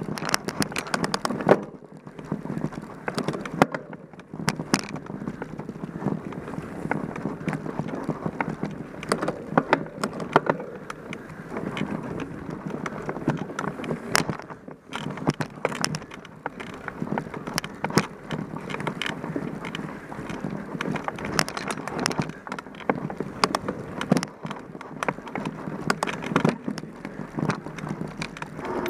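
Mountain bike ridden over a rough trail: a steady rush with frequent rattles and knocks from the bike.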